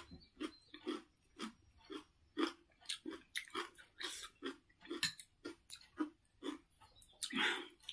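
Close-miked chewing of crunchy raw cucumber, a quick run of wet crunches at about three a second, with a longer breathy hiss near the end.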